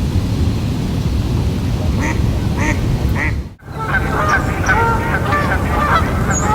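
A flock of birds calling, with a few short calls at first. About halfway through, the sound cuts briefly, then many short calls overlap in a busy chorus. A steady low rumble runs underneath.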